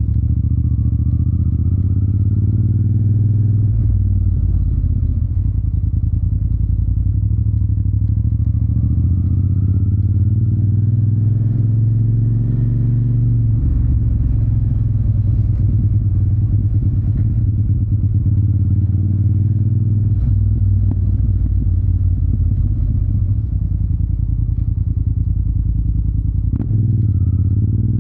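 Yamaha TDM 900 parallel-twin engine through an Akrapovic exhaust, on the move. The engine note climbs twice in the first half as the bike pulls, dropping after each climb, then runs steadier. There is a brief sharp change in the note near the end.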